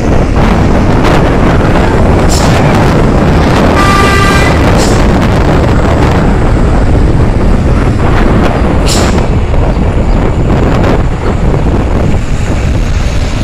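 Road vehicle noise with heavy wind rush on the microphone, and a few sharp knocks. A vehicle horn toots once, briefly, about four seconds in.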